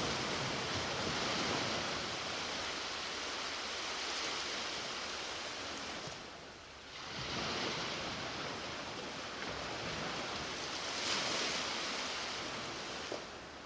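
Ocean waves washing on a beach shore: a steady rushing surf that eases off briefly about halfway through, then builds again with a fresh wave and swells once more before fading near the end.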